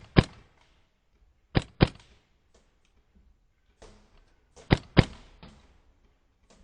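Airsoft guns firing: sharp single shots and quick pairs, a pair about a second and a half in and a cluster of three near five seconds in.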